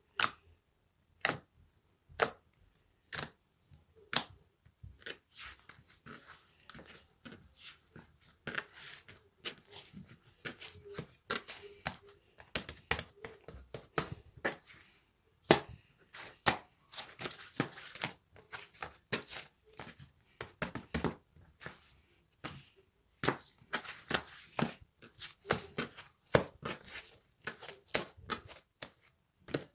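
A run of sharp clicks and taps, about one a second at first, then coming thick and irregular with crackly stretches.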